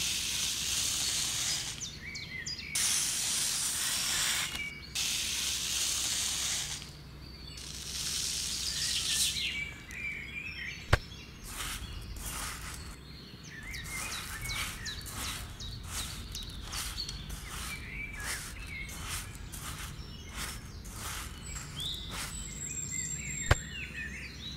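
Fine white sand poured from a small cup into a plastic tray: a steady hiss in three pours of about two seconds each. Then scraping and light ticks as the sand is spread and levelled with a small metal blade. Faint bird chirps in the background.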